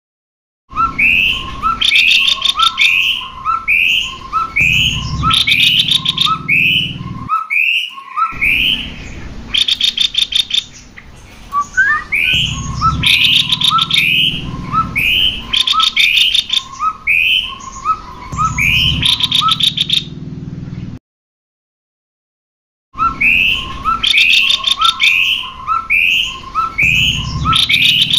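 Cucak kopi birds, male and female, calling loudly and repeatedly: clear short notes over and over, broken by bursts of rapid chattering trills. The sound drops out for about two seconds around three quarters of the way through, then resumes.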